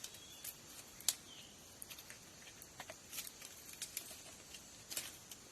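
Irregular light clicks and taps, a few scattered over the seconds, with a sharper one about a second in.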